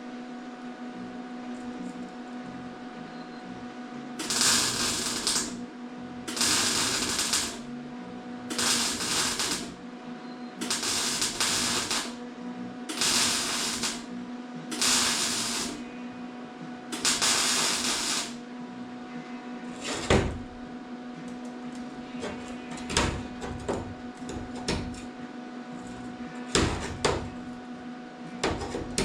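Slow, evenly spaced rasping strokes of a hand tool working metal, seven strokes about two seconds apart, followed by scattered clicks and knocks of parts being handled.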